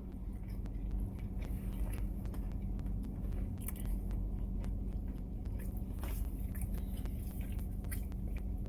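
A person chewing a large bite of a breakfast wrap close to the microphone, with many small wet mouth clicks, over a steady low hum.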